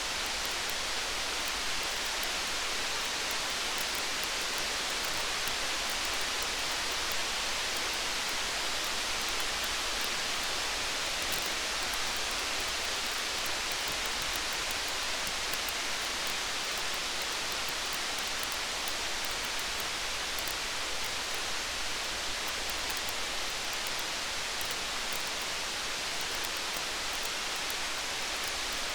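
Steady rain falling, an even hiss that does not change, with faint small crackles scattered through it from a campfire.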